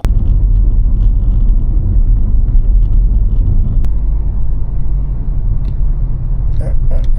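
Loud, steady low rumble of a vehicle driving, starting abruptly.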